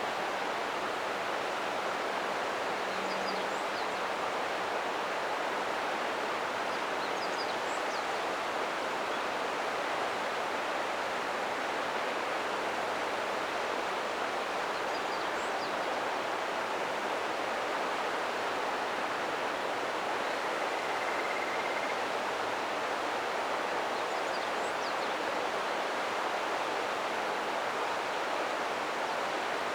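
Ōta River water rushing in a steady, unbroken flow. A few faint, short, high chirps rise over it now and then.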